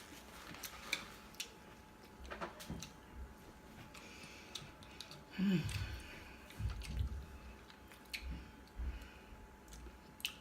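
Faint eating sounds of shellfish being picked apart and chewed: scattered small clicks and soft, squishy chewing.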